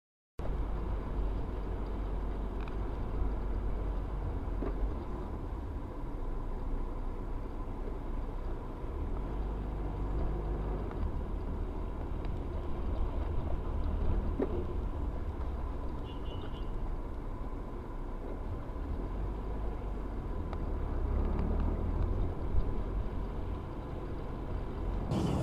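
Steady low rumble of a moving car, the road and engine noise typical of a dashcam recording, with a faint steady high tone over it. It begins abruptly about half a second in.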